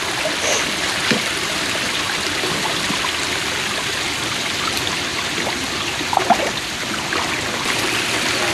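Creek water running steadily, a constant rush and trickle, with a brief faint sound about six seconds in.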